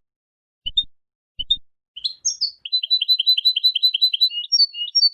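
European goldfinch singing: a few short separate chirps, then from about two seconds in a fast trill of about eight notes a second, followed by repeated two-note phrases.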